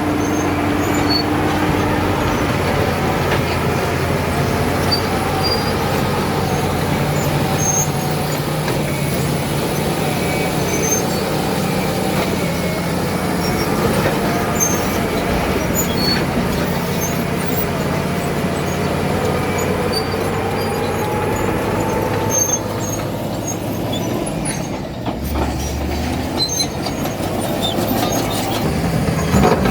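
Caterpillar D7 bulldozer working: its diesel engine runs steadily under load while the steel tracks squeal and clank. The sound drops somewhat about three-quarters of the way through.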